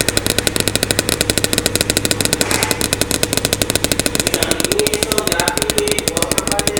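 LG washing machine in its spin cycle, with a fast, even rattling knock about ten times a second over a steady low hum.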